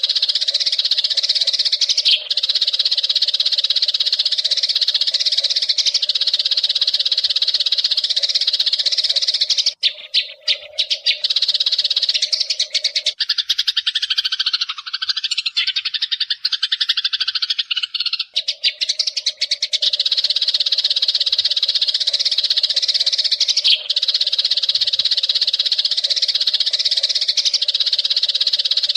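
Eurasian tree sparrows chirping in a loud, dense, continuous chatter of rapid chirps. For a few seconds in the middle the chirps turn lower and waver before the steady chatter resumes.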